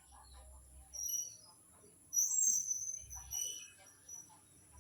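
Birds chirping: short high-pitched chirps about a second in, then a louder run of chirps between two and three seconds in and a few more after.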